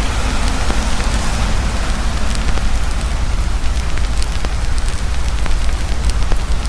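Heavy rain pouring steadily while a campfire crackles, its wood popping in scattered sharp clicks over the hiss of the rain and a deep low rumble.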